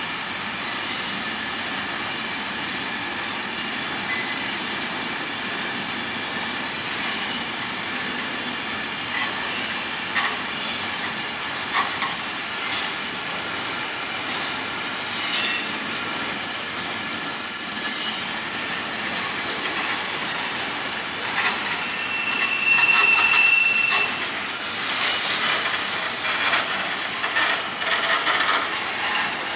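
Freight train wagons rolling past, wheels clattering over rail joints with high, sustained wheel squeals against the rails that grow louder in the second half.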